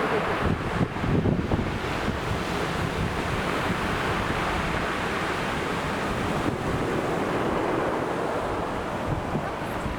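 Sea waves breaking and washing on a beach, a steady roar of surf with a louder swell about a second in, with wind buffeting the microphone.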